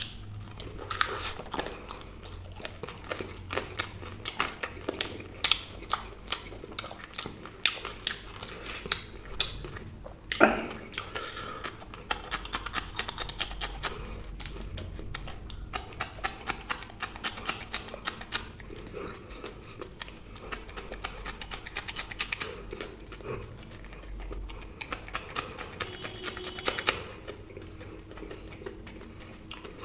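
Close-miked chewing and crunching of samosas and green chillies: a steady run of short crisp crunches, with one louder bite about ten seconds in.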